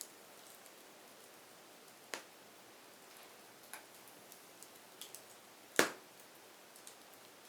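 Wood fire burning with a soft hiss and scattered sharp crackles and pops, the loudest about six seconds in.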